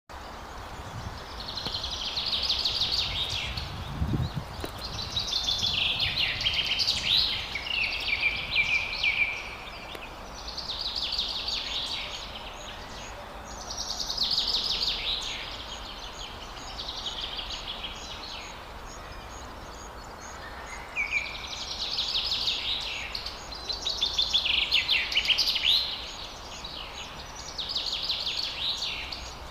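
Nestling songbirds begging for food with dense, high chirping in about eight bouts of two to three seconds, rising and falling in loudness: hungry chicks calling, as at a feeding. A low thump sounds about four seconds in.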